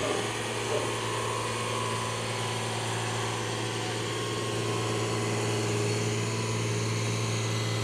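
Oliver 1650 tractor engine running steadily at an even pitch during its pull.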